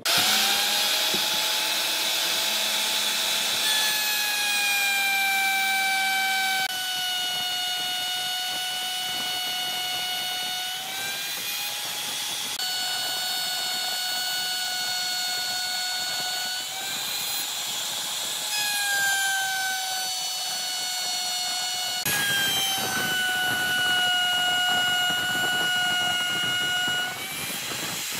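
Electric power tool motor running with a high, steady whine over a rushing noise. The pitch dips and recovers slightly several times, and the sound changes abruptly a few times.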